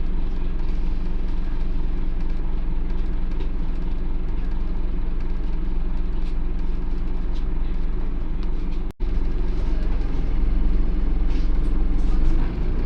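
Scania OmniCity double-decker bus engine running at a steady low speed, a deep even drone, with a sudden break of a fraction of a second just before the nine-second mark.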